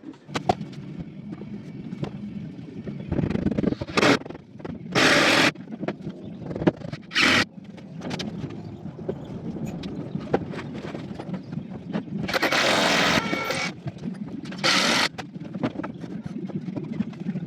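A handheld power tool run in about five short bursts of half a second to a bit over a second each, the longest near the end, over a steady low hum.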